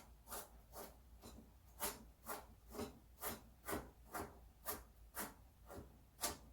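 A freshly sharpened kitchen knife slicing through a carrot: a steady run of about thirteen crisp cuts, roughly two a second, each ending in a tap of the blade on the cutting board.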